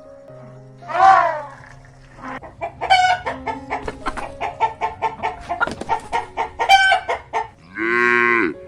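A cat meows once, then a chicken clucks rapidly in a long run of short calls for about five seconds. Near the end a cow starts to moo.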